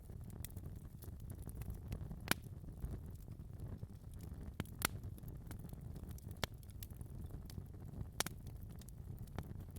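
Fire crackling in a fireplace: a low, steady rumble of flames with scattered sharp pops, the loudest three about two, five and eight seconds in.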